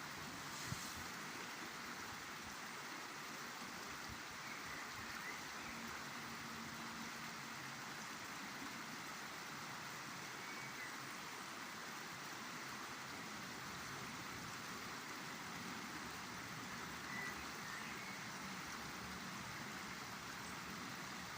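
River Douglas flowing: a steady rush of running water.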